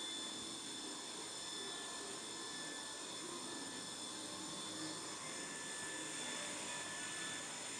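Steady low hiss of room tone, with faint steady high-pitched whining tones running through it.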